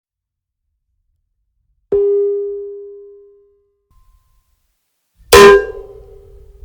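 Two metallic clangs about three and a half seconds apart, each ringing out on one tone. The first fades over about a second and a half; the second is much louder and sharper.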